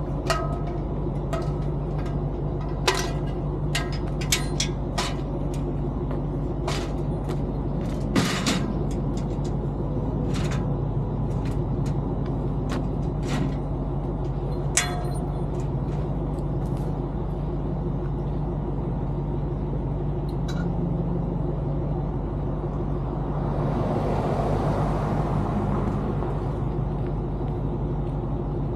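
A vehicle engine idling as a steady low hum, with scattered sharp clanks and knocks through the first half. About 23 seconds in, a hiss swells up and fades out over a couple of seconds.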